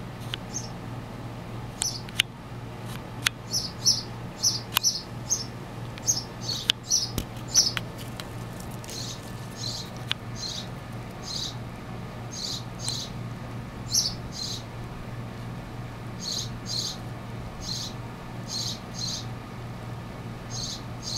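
A small bird chirping repeatedly in the background: short high chirps at irregular intervals, often in pairs, with a few sharp clicks in the first several seconds.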